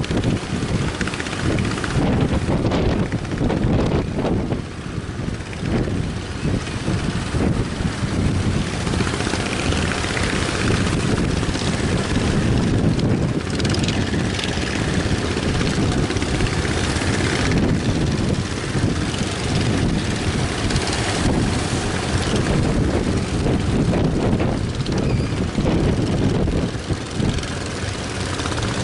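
Boat engines running steadily, mixed with strong wind buffeting the microphone.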